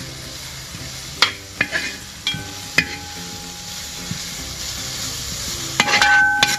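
Chopped onion, tomato, green chilli and potato sizzling in oil in a large metal pot while a steel ladle stirs them, knocking and scraping against the pot several times, with a short ring after some of the knocks.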